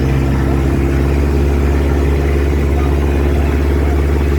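Motorboat engine running steadily at a constant speed, a low, even drone.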